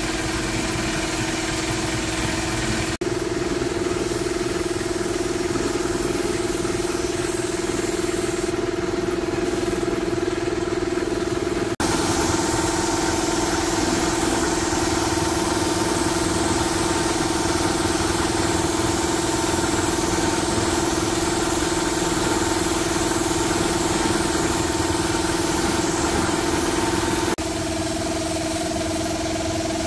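Restored vintage car's engine idling steadily at an even pitch, with abrupt jumps in tone and level three times.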